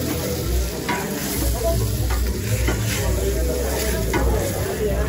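Bacon, onion and chorizo frying in oil in a stainless steel stockpot, sizzling steadily. A spatula scrapes and knocks against the pot every so often as the food is stirred.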